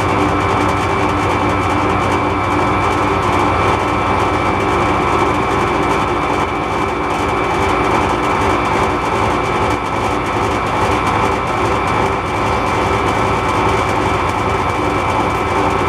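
MAS metal lathe running under a light cut of about 25 thousandths, a steady mechanical whine with a thin high tone.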